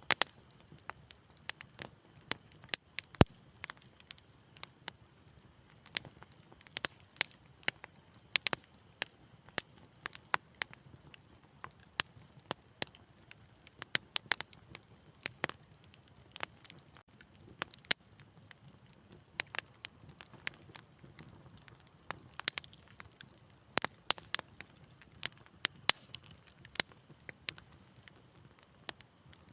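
Wood fire crackling in a fireplace: irregular sharp pops and snaps, several a second at times, over a faint low steady rush of the flames.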